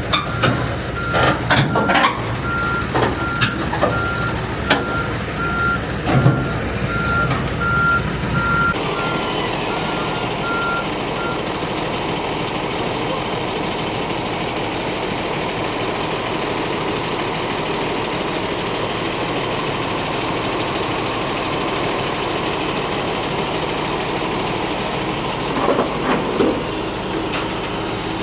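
A heavy equipment reversing alarm beeps repeatedly at one pitch over running machinery, with several knocks and clanks in the first few seconds. The beeping stops about eleven seconds in, leaving a steady machine engine running to the end.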